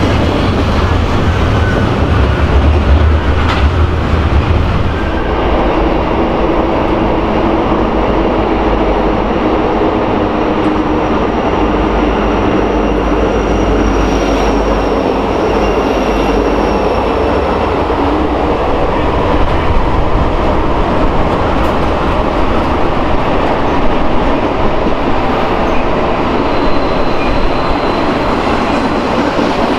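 Low rumble of an Amtrak Superliner passenger train for the first five seconds. It then changes abruptly to a BNSF freight train passing close by: diesel locomotives running, followed by a steady roll of intermodal container and trailer cars with faint wheel squeal.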